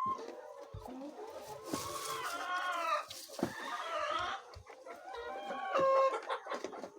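Chickens clucking, with a longer drawn-out call about two seconds in.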